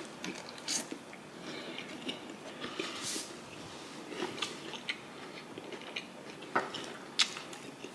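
Close-miked chewing of a mouthful of burger, soft wet mouth sounds with a few sharp clicks scattered through.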